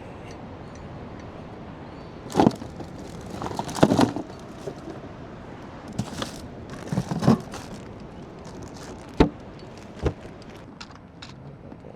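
Several sharp knocks and clatters of gear being handled, with a single hard knock about nine seconds in, over a steady background rush.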